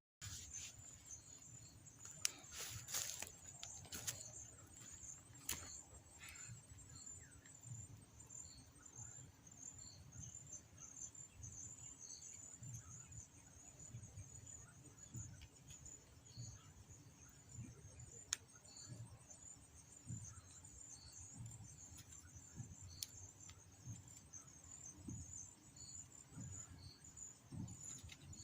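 Faint, steady high-pitched chirring of insects such as crickets, with a soft short chirp repeating about once a second. A few clicks and rustles come a couple of seconds in.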